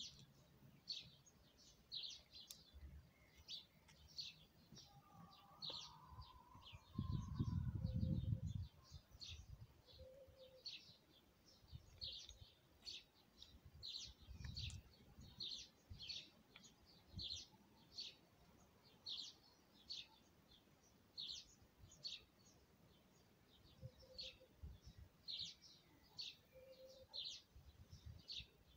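A small bird chirping over and over, short high notes about one and a half a second, with a brief low rumble about seven seconds in.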